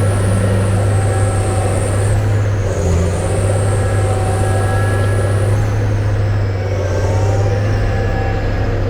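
Cat Challenger tractor's diesel engine running under load with a steady drone, as it is driven to work itself free from mud.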